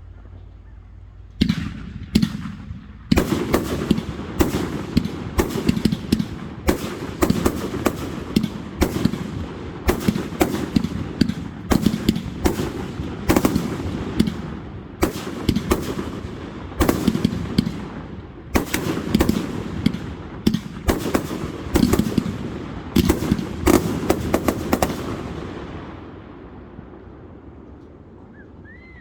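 Aerial fireworks display: a rapid barrage of sharp bangs and crackling bursts, many a second, that starts about a second and a half in and dies away a few seconds before the end, leaving a fading rumble.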